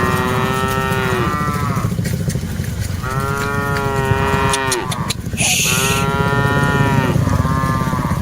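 Cattle mooing: several long, drawn-out moos one after another, some overlapping, over a steady low rumble. A short burst of hiss about five and a half seconds in.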